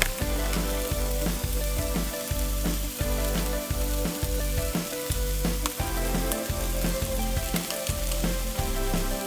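Food sizzling steadily as it fries in a pan, with background music that has a repeating bass line.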